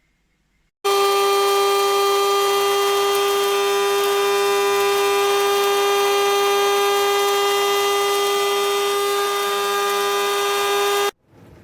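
Melitta Molino electric flat-burr coffee grinder's motor running with a steady, high whine, starting about a second in and cutting off abruptly about ten seconds later.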